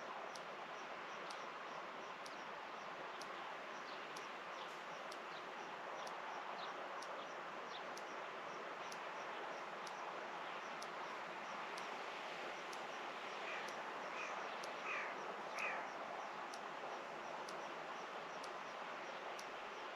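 Rural outdoor ambience: a steady hiss with a faint, regular high ticking about twice a second, and a bird calling a few times in short calls about 14 to 16 seconds in.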